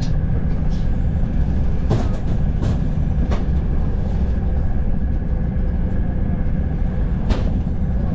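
Frecciarossa ETR 500 high-speed train running, heard from inside a passenger coach: a steady, loud low rumble with a few sharp clicks.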